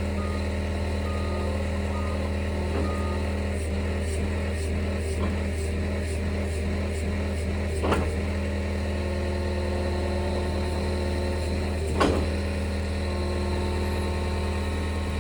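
John Deere 325G compact track loader's diesel engine running steadily, with short high beeps of its backup alarm in the first few seconds. Two sharp clanks stand out, about eight and twelve seconds in.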